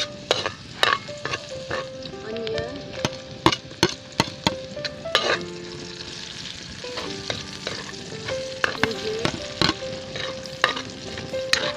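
Garlic, onion and ginger sautéing in hot oil in a wide aluminium wok, sizzling steadily while a metal ladle stirs and scrapes, clinking sharply against the pan many times.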